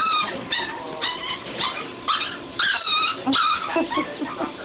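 Dog whining: a string of short, high-pitched whimpers that rise and fall in pitch, typical of a dog whining for attention.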